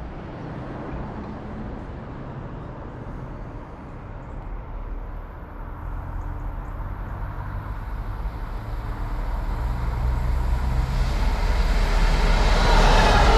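Diesel train approaching, its low engine rumble growing steadily louder, with wheel and rail noise building over the last few seconds as it draws near.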